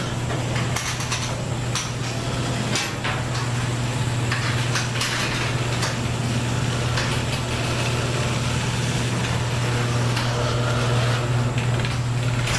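Genie garage door opener running as it closes the garage door: a steady motor hum with the rattle and clatter of the rail and door sections. It starts suddenly and stops after about twelve and a half seconds, when the door is down.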